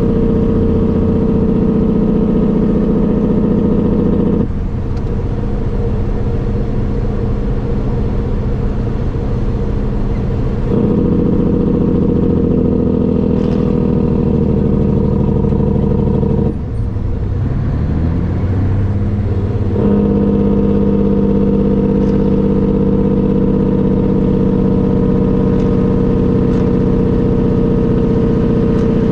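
A vehicle's engine running steadily under way. About four seconds in the note changes and drops a little for about six seconds. Around seventeen seconds it dips again and rises in pitch over a few seconds before settling back to its steady run.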